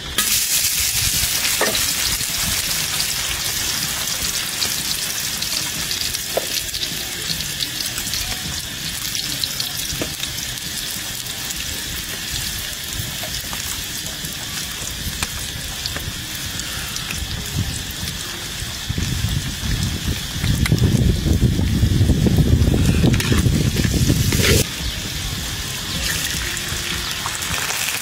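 Chopped chilli, garlic and herbs sizzling in hot oil in a wok, a steady frying hiss. About twenty seconds in it grows louder and fuller for a few seconds, then drops back suddenly.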